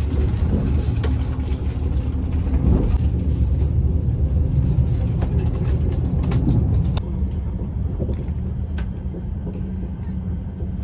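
Steady low rumble of a moving vehicle with scattered clicks and knocks. The sound changes abruptly twice, about three and seven seconds in, and is a little quieter after the second change.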